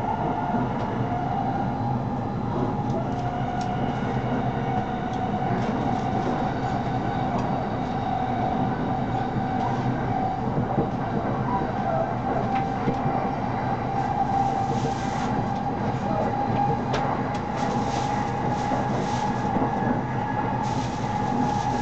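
Shonan-Shinjuku Line electric train running at speed, heard from inside the carriage: a steady rumble and rush of running noise. Over it is a constant whine that edges slightly up in pitch, with occasional clicks from the wheels on the rails.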